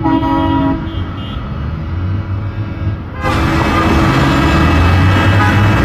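Truck air horns sounding a steady chord over the low rumble of truck engines. The horns are strongest in the first second. About three seconds in, the sound suddenly gets louder and fuller as the trucks come closer.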